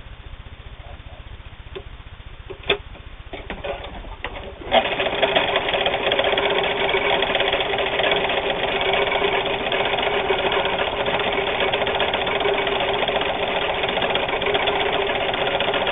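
Meister-Werke sewing machine stitching through a piece of denser sheeting, running at a steady speed. It starts about a third of the way in, after a few light clicks.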